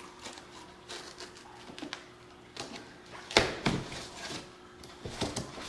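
Handling noises of unpacking: scattered light clicks and rustles of packing material, with one sharper knock about three and a half seconds in and a few small clicks near the end.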